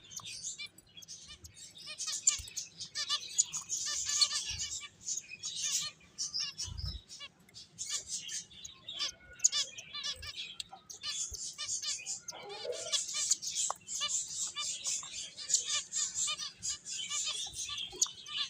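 Pet finches chirping continuously: many rapid, overlapping high-pitched chirps from several birds, with a few faint soft thumps.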